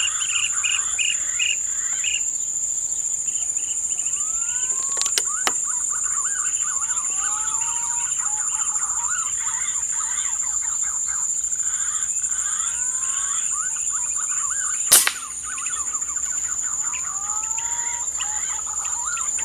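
Steady high insect drone with many birds chirping and giving short rising whistles. About fifteen seconds in comes a single sharp crack of an air-rifle shot.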